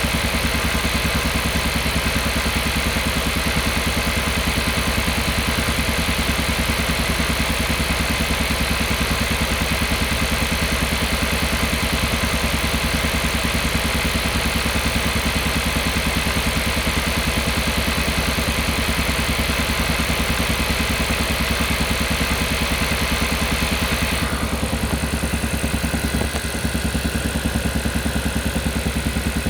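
Kia Carnival Hybrid's 1.6-litre turbo petrol engine running steadily with a fast, even pulsing: the repeated 'puk-puk-puk' engine noise the owner is documenting. Near the end the higher hiss above it drops away while the pulsing goes on.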